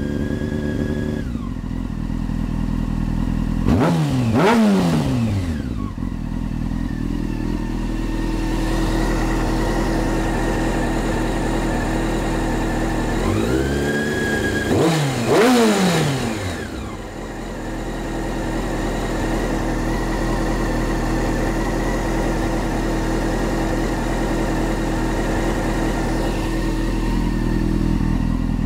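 2002 Honda CBR600F4i's inline-four through a Two Brothers Racing carbon-fibre exhaust, revved in place. A held high rev falls back to idle about a second in, a quick pair of throttle blips comes a few seconds later, and another held rev and blip comes around the middle; otherwise it idles steadily. The exhaust note is deep, a little muffled by the garage.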